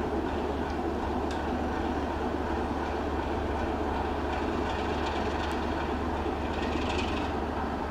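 Rail vehicles moving slowly, making a steady running noise with scattered light wheel-and-rail clicks. A brief higher-pitched squeal or scrape comes near the end.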